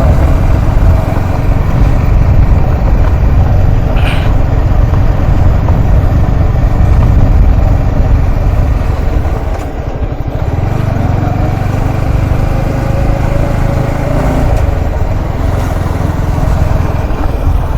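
A motorcycle riding along the road: a steady engine hum under loud wind rumble on the microphone, easing for a moment about ten seconds in.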